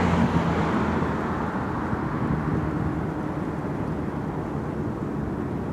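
Jet airliner's engine noise, a broad steady rumble with low tones that fade out in the first second or so, then slowly dying away.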